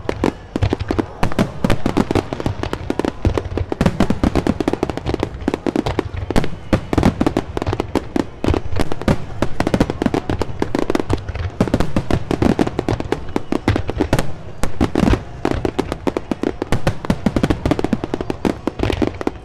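Fireworks display: a dense, unbroken run of bangs and crackling bursts, many overlapping each second.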